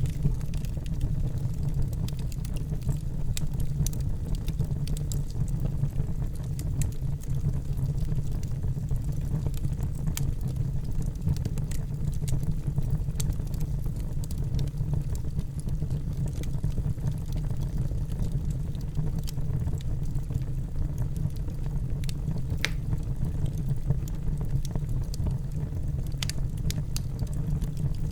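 Fire burning in a fireplace: a steady low rumble with many small sharp crackles scattered irregularly throughout.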